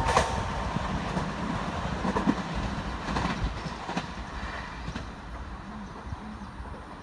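Train wheels clicking over rail joints, the rumble fading steadily as the train moves away.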